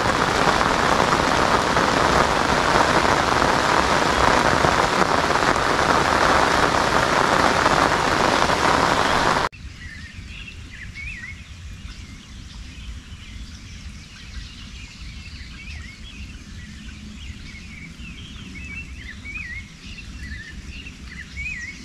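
Heavy rain falling steadily; it cuts off suddenly about nine and a half seconds in. A quieter background follows, with small birds chirping over and over.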